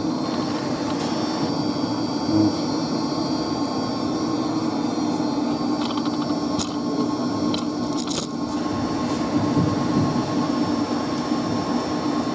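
Steady hum of running machinery in a pump room, with a few light clicks about six to eight seconds in.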